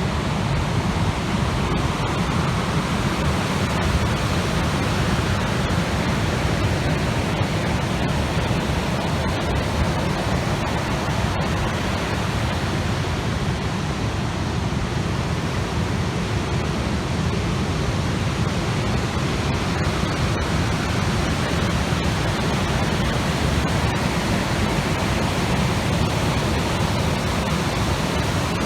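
Steady rushing noise of typhoon wind and storm-swollen, churning water, even throughout with no distinct wave crashes.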